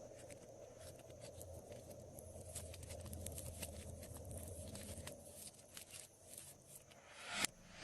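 Glossy slime being worked by hand: a quick run of small sticky clicks and crackles, rising into a louder squish near the end.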